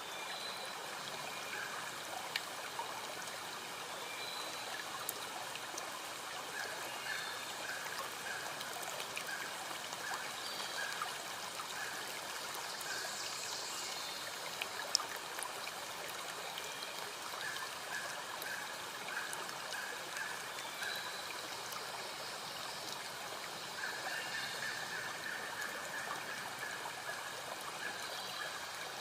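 Valley stream flowing steadily, with short high chirps repeating over it and a single sharp click about halfway through.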